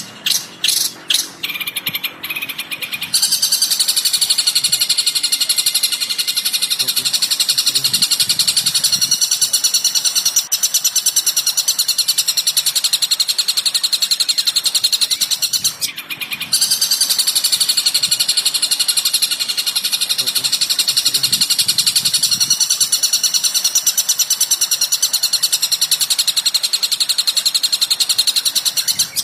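Recorded bird song: a short run of fast, rattling repeated notes, then a long, continuous, rapid high-pitched chattering with a brief break about halfway through.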